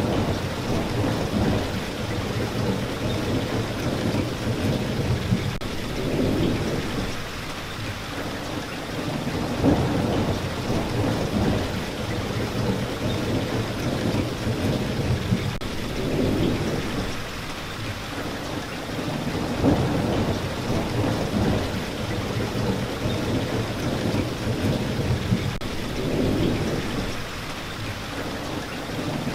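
Steady rain, with a low rumble that swells and fades about every three seconds.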